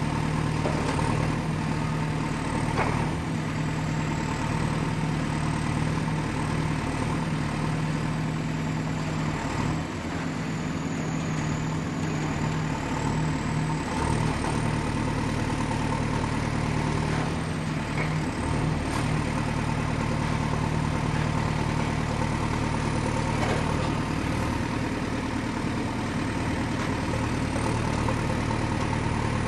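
Excavator's diesel engine running steadily with a low hum, with a thin high whine that drifts slightly up and down in pitch and a few faint knocks.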